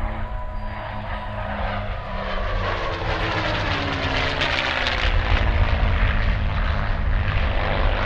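Two P-51D Mustangs' Packard-built Merlin V-12 engines on a formation pass. The sound grows louder, and the engine note drops in pitch as they go by.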